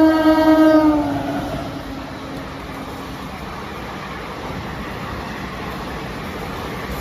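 An express train's horn sounding loud and held, its pitch dipping slightly as it cuts off about a second in, followed by the steady rush of the high-speed train passing.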